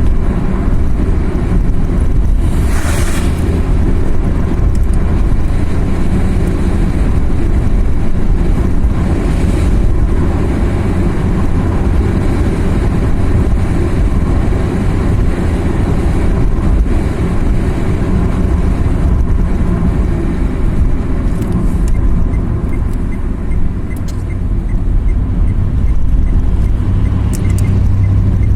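Car driving on a mountain road: steady engine and road rumble, with a short rushing swell about three seconds in and a faint, regular ticking near the end.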